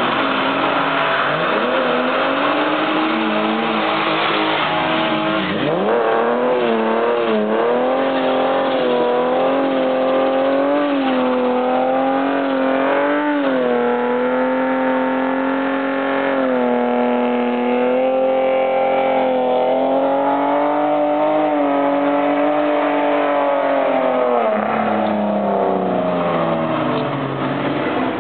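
BMW E34 2.5 12V straight-six held at high revs while the car slides with its rear tyres spinning and squealing. In the first few seconds engine notes rise and fall as several cars pass; the revs dip briefly about 13 seconds in and drop off near the end.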